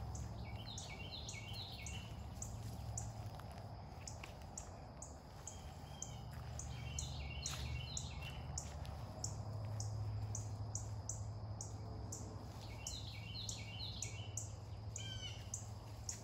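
Woodland songbird singing a short phrase of quick, repeated falling notes three times, about six seconds apart. Under it are an even high ticking about twice a second and a low rumble.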